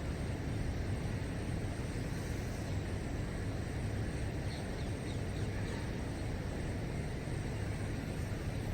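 Steady outdoor background noise: an even low rumble with a hiss over it, with no distinct events.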